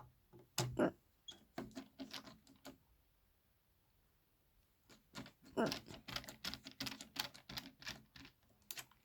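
Irregular clicks, knocks and scrapes of hard plastic and metal parts being handled and pulled apart, in two runs with a short lull between them.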